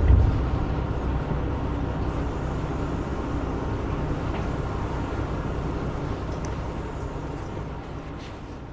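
Interior sound of a KiHa 125 diesel railcar: a steady low rumble from its diesel engine, gradually fading out.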